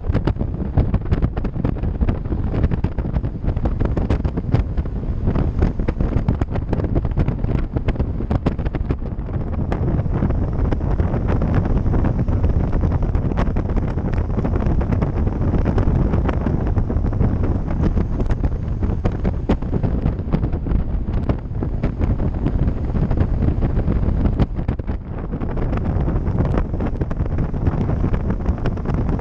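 Wind buffeting the microphone on a moving bicycle: a steady low rumble with frequent small clicks and rattles running through it.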